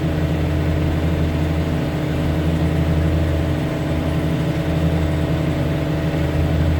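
John Deere tractor's diesel engine running at a steady speed, a low, even drone with no change in pitch.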